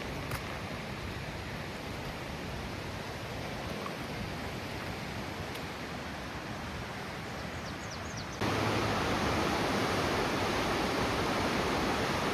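Rushing water of a river swollen with spring flood water, a steady, even rush. It jumps suddenly louder about eight seconds in.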